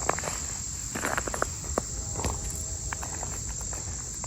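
A steady, high-pitched insect chorus, with scattered footsteps on the trail.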